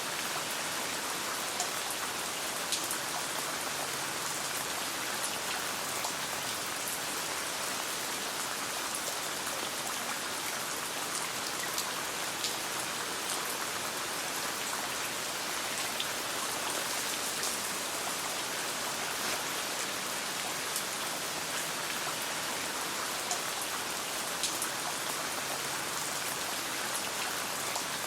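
Steady rain falling in a dense, even hiss, with scattered sharp ticks and pops a few times over its length.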